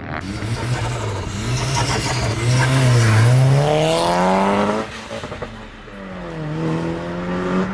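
A performance car's engine revving hard as it launches out of the meet: the pitch dips, then climbs steeply and loud until it drops off sharply about five seconds in, then falls and climbs again near the end.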